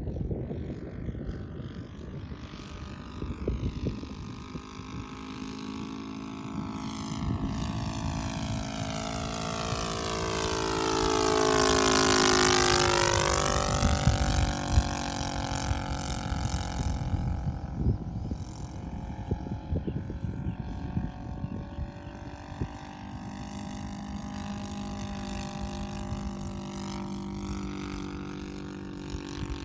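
Radio-controlled Ju 87 Stuka model's 60cc NGH inline gasoline engine and propeller droning in flight. The plane makes a low pass that builds to its loudest about twelve seconds in, with the pitch sliding down as it goes by, then settles back to a steadier, fainter drone. Wind rumbles on the microphone.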